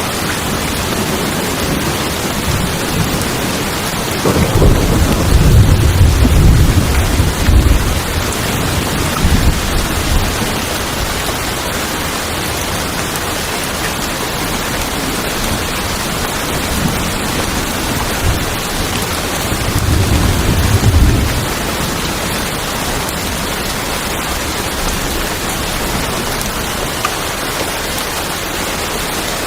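Steady heavy rain falling on a tin roof, with a rumble of thunder about four seconds in and another around twenty seconds in.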